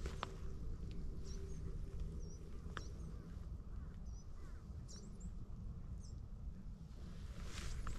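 A few short, high bird chirps scattered over a low steady rumble. Footsteps crunch on the gravel path again near the end.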